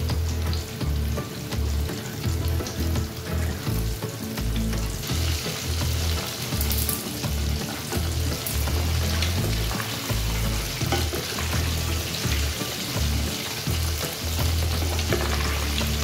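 Battered chicken pieces deep-frying in hot oil with a steady sizzle that grows louder about five seconds in, while a wooden spatula stirs them in the pot.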